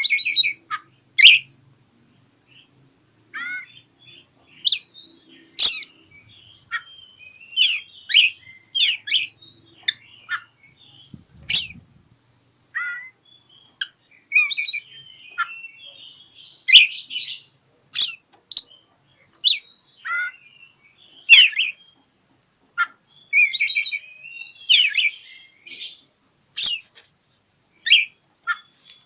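Oriental magpie-robin (kacer) singing a challenging song: a varied run of loud, sharp whistles and chirps in quick phrases broken by short pauses.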